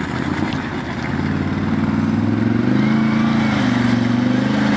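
ATV engine revving, getting louder from about a second in, its pitch rising and falling as the throttle changes.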